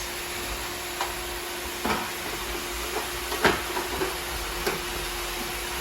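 Roomba robot vacuums running, a steady whirring hiss with a constant hum, and a few short knocks and clicks scattered through it as they sweep up spilled cereal.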